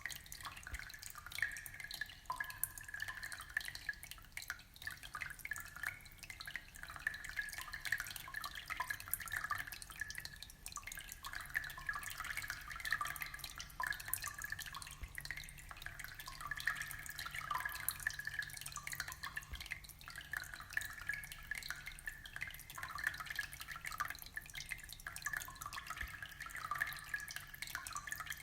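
Aquarium water trickling and bubbling: a steady, dense run of small drips and splashes with no pauses.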